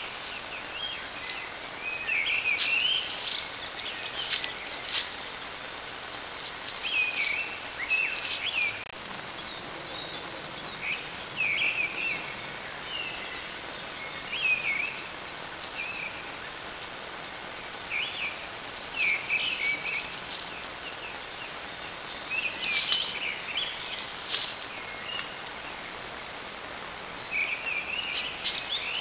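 Songbirds singing: short chirping phrases coming every second or two, over a steady background hiss, heard through a trail camera's built-in microphone.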